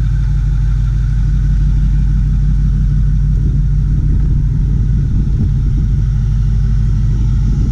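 Ford 6.4-litre V8 turbo diesel engine idling steadily, with an even low rumble.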